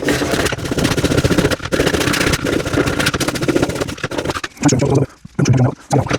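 Wire brush scrubbing rust off a steel clamp: a rapid, harsh rasping that stops briefly twice in the last second or so.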